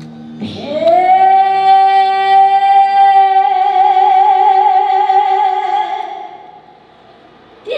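A female voice sings one long, amplified held note that slides up into pitch, takes on a vibrato partway through and fades after about five seconds. Another note starts just before the end. This is the opening of a live trot song.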